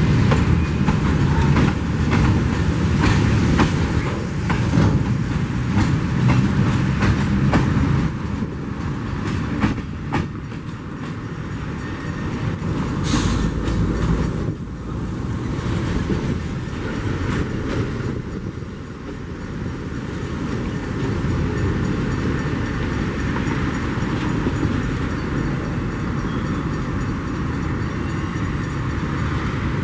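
Freight train of loaded mineral hopper wagons rolling past, with wheels clacking over rail joints for about the first ten seconds and then a steadier, quieter rumble.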